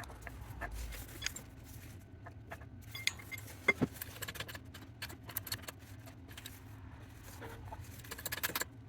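Light metallic clicks and clinks from a press being worked by hand, pushing an oil seal into its housing with a driver ring, with one sharper click a little under four seconds in.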